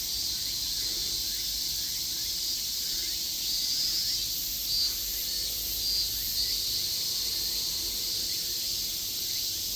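Chorus of Japanese cicadas buzzing steadily, with a few louder swells coming and going. A low rumble sits underneath.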